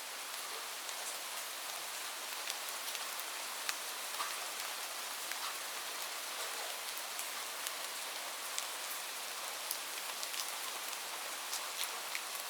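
Light rain falling steadily: a soft even hiss with many separate drops ticking on a surface.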